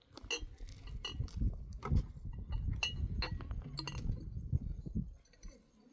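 Glass and dishware clinking as jars and utensils are handled: a string of irregular, sharp clinks, some briefly ringing, over low handling rumble.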